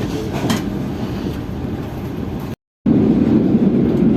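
Steady rumble of a passenger train running at speed, heard from aboard. About two and a half seconds in it cuts out briefly, and a louder steady rumble follows.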